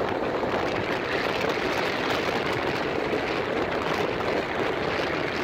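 Steady rushing running noise of a moving passenger train heard from on board a carriage.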